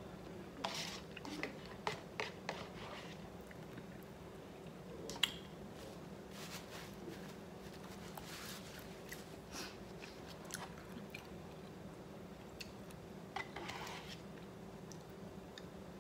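A person eating spicy instant cup noodles close to the microphone: chewing and biting, heard as short, irregular mouth clicks and smacks. A faint steady hum runs underneath.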